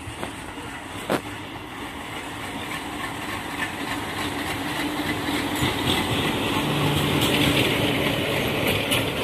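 WDG3A diesel locomotive arriving with a passenger train: its engine runs as it comes past, then the coaches roll by with wheels clattering over the rail joints, the sound growing steadily louder. A single sharp click about a second in.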